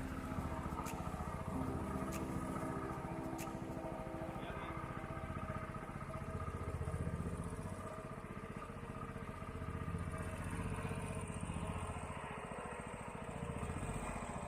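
Houseboat engine running steadily with a low, even drone that swells and eases a little over the seconds.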